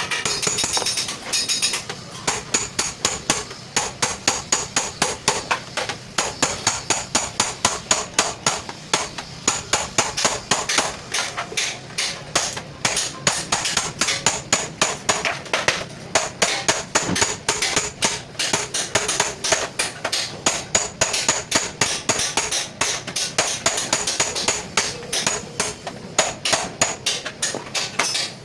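A small hammer tapping in a steady, even rhythm, about three blows a second.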